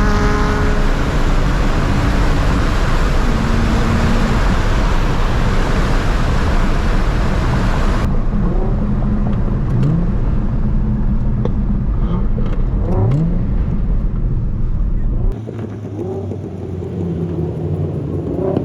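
Car engines under hard acceleration with heavy road and wind noise at speed. Twice around the middle an engine climbs steadily in pitch through the revs. The sound changes abruptly a couple of times.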